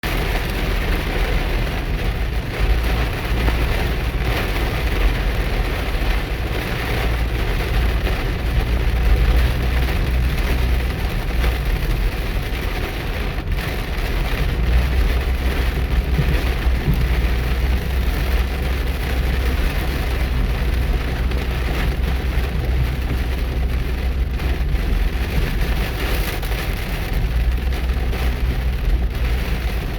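Heavy rain pounding steadily on a car, over the low, steady rumble of the car's engine and road noise.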